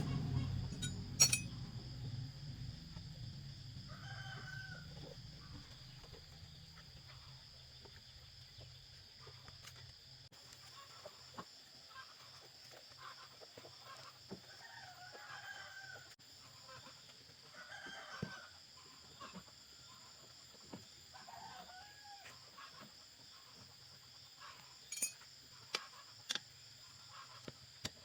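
Chickens calling now and then, each call about a second long, over a low hum that dies away in the first few seconds; a few sharp clicks near the end.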